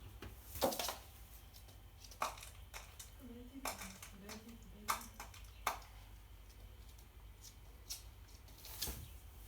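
A bird pecking at dry cat food in a bowl: irregular sharp taps and clinks, about eight in all, with a faint low voice in the middle.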